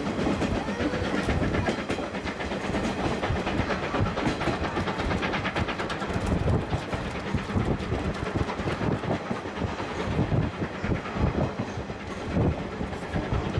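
Old passenger coach of a C11-hauled steam train running along the line, with a steady rumble and wheels clacking over the rail joints.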